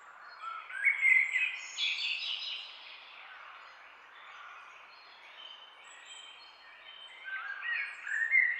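Birds singing: two bursts of quick, stepping whistled notes, one near the start and one near the end, with a quieter stretch of softer calls between, over a steady background hiss.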